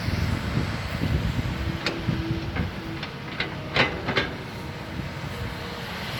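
Excavator working dirt, its engine running with a steady low rumble, with several sharp clanks about two to four seconds in, the loudest near the four-second mark.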